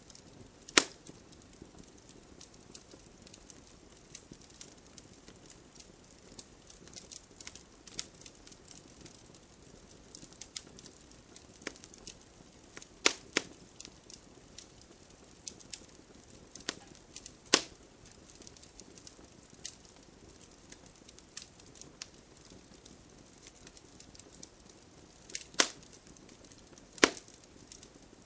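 Wood fire crackling: a constant bed of small crackles with sharp, loud pops at irregular moments, about half a dozen standing out over the rest.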